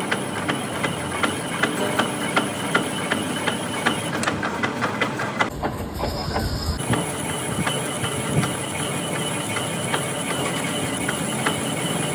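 Metalworking machine running with a steady mechanical noise and a rapid, regular clicking, about three to four clicks a second. The sound changes abruptly about six seconds in, then the running and clicking carry on.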